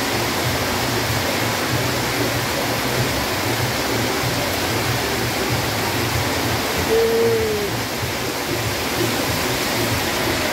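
Heavy rain pouring steadily, with the bass beat of music playing faintly underneath and a short falling tone about seven seconds in.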